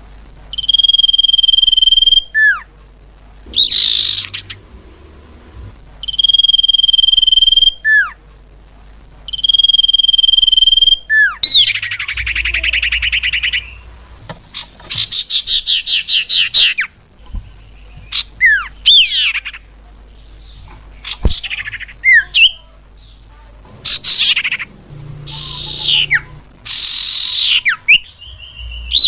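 Cipau bird calling. It gives three long, steady whistles, each ending in a quick falling note, then rapid trills and a string of short falling whistles.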